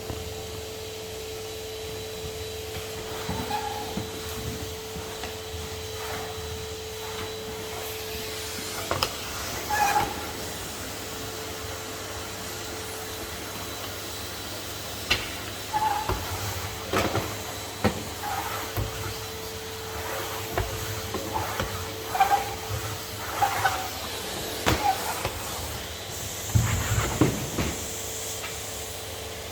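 Henry HVR200 620 W canister vacuum cleaner running steadily with a constant whine, with scattered knocks and clatters, more of them in the second half.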